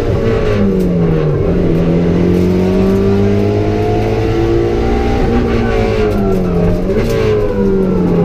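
Rally car engine heard from inside the stripped cabin at speed, its revs climbing slowly under throttle and dropping back as the driver lifts, about a second in and twice more past the middle. Loud, constant engine and road noise throughout.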